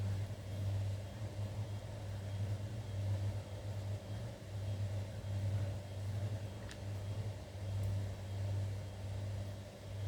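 A steady low mechanical hum that swells and fades gently, with a faint tick about two-thirds of the way through.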